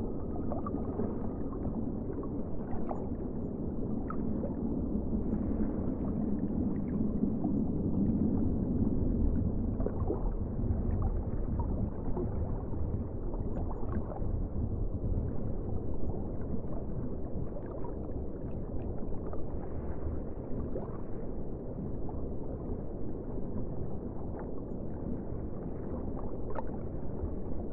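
Water heard from underwater through a submerged GoPro: a muffled, steady low rumble and wash with faint clicks and pops scattered through.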